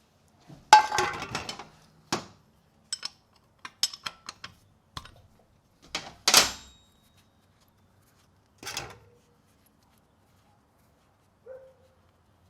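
A drain pan and hand tools clattering and clinking as they are set in place for an oil change: a burst of clatter about a second in, then scattered clicks and knocks, with a louder clank a little past six seconds and a lighter knock near nine.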